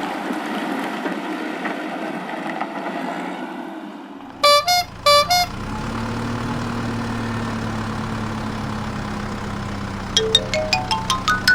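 Cartoon vehicle sound effects: a few quick horn honks, then an engine running steadily. Near the end comes a quick rising run of short notes.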